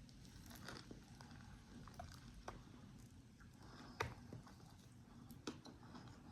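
Faint eating sounds: quiet chewing with scattered small clicks, one sharper click about four seconds in.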